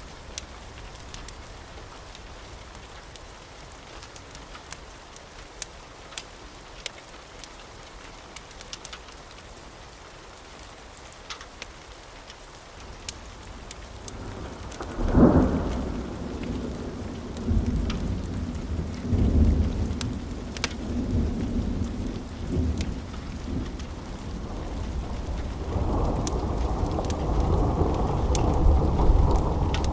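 Steady rain with scattered sharp ticks. About halfway through, a sudden thunderclap breaks in, and thunder keeps rumbling after it, swelling again near the end.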